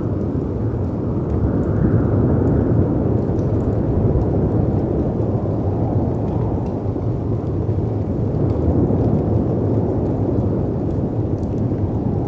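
Storm ambience: a steady low rumble of wind and sea surf that swells gently a couple of seconds in. Faint scattered crackles and pops from a fireplace sound over it.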